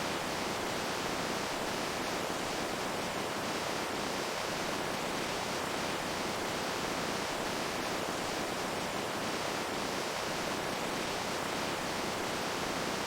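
Running water with a steady, even hiss and faint splashing, constant throughout.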